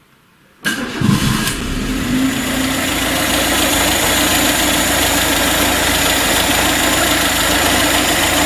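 VAZ 21099's 1.5-litre carburettor four-cylinder engine started: the starter turns it over briefly and it catches within about a second, then settles into a steady idle.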